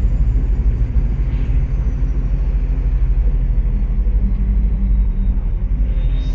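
MAZ 103 city bus driving, heard from inside: a steady low engine and road rumble.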